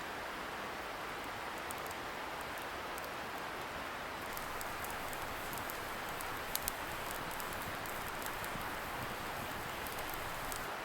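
Steady rushing of a river a little way off, heard as an even hiss, with the sparse crackle of a wood campfire over it; two sharper pops from the fire about six and a half seconds in.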